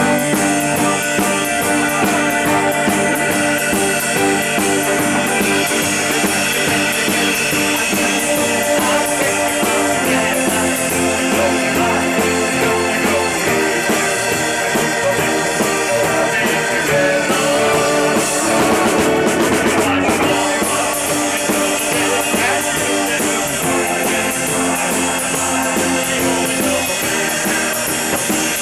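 Rock band playing live with drum kit and guitars, a steady loud instrumental passage without singing.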